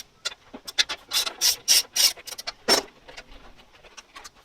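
Socket ratchet clicking in quick back-and-forth strokes as a 3/8-inch bolt on a Victa mower's engine cover is undone. The clicks come about three a second and stop just under three seconds in, leaving only faint light ticks.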